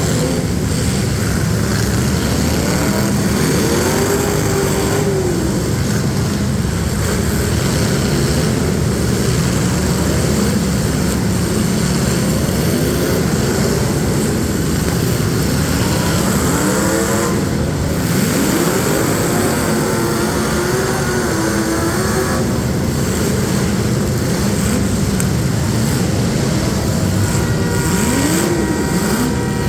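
Several demolition derby street stock car engines running loudly together, revving up and down again and again.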